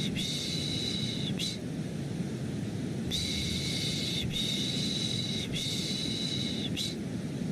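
Rhythmic 'shh, shh' shushing for lulling a baby to sleep, over a steady bed of white noise. The shushes come in strokes of about a second each, with a pause of about a second and a half early on before a run of four.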